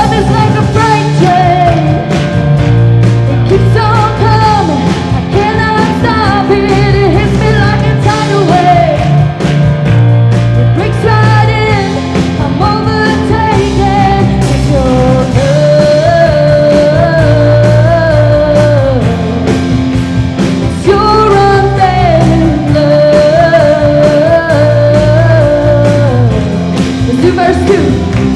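Live worship band playing with a lead singer carrying the melody over sustained bass and full band accompaniment.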